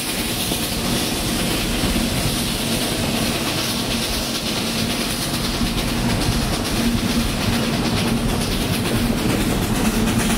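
Steam-hauled train running steadily, heard from aboard an open car: a continuous rumble of wheels on rail with a steady low tone underneath.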